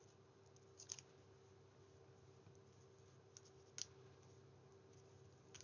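Near silence with a faint steady hum, broken twice by faint clicks of card and paper being handled, about a second in and again near four seconds in.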